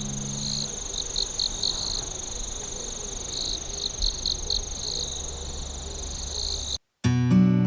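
Insects calling: a steady high trill with short chirps repeating over it. The calling cuts off near the end and strummed acoustic guitar music comes in.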